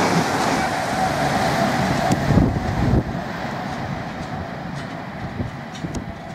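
GWR Hitachi intercity train passing at speed: a loud rush of wheels on rail and air with a steady whine. The noise drops off sharply about three seconds in as the last coach goes by, then fades as the train draws away.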